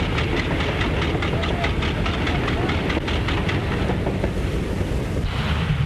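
Rapid, regular mechanical clatter, about five beats a second, over a steady rumble and hiss.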